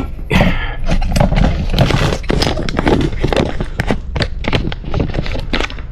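Rapid, irregular knocking and clattering of parts being handled and set down on a workbench, over a low steady hum.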